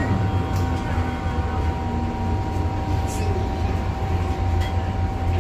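MTR M-Train electric multiple unit running, a steady low rumble with a steady electric whine over it.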